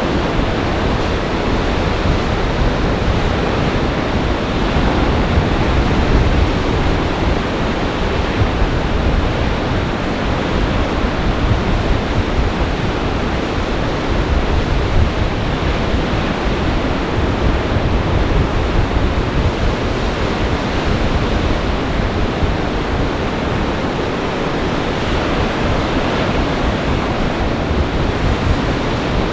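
Lake Michigan surf breaking in a gale-force winter wind: a loud, continuous wash of waves and wind, with wind rumbling on the microphone.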